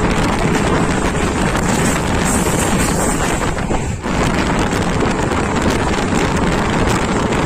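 Wind buffeting the microphone over the steady rushing noise of a passenger train running at speed, with a brief dip in the noise about four seconds in.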